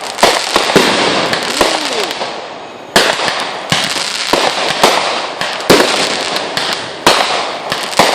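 Fireworks going off in a rapid series of sharp bangs, with crackling between them, a few short falling whistles about two seconds in, and loud reports about three, six and seven seconds in.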